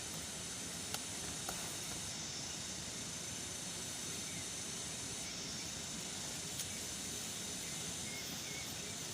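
Steady outdoor hiss, strongest high up, with a few faint short clicks.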